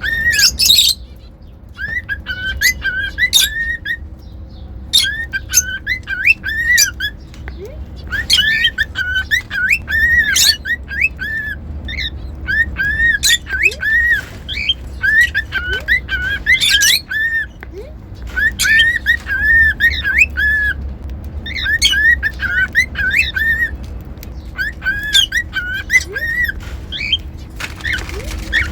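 Cockatiel whistling: phrases of short up-and-down whistled notes, one phrase every couple of seconds with brief pauses between, with a few sharper high chirps mixed in. A steady low hum runs underneath.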